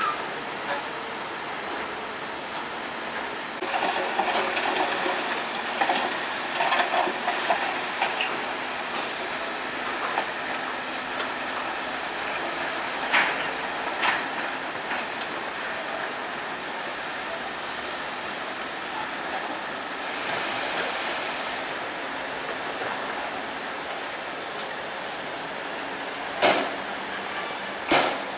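Heavy earthmoving machinery at work: a steady mechanical running noise with metallic clattering and squeals, and a few sharp knocks near the end.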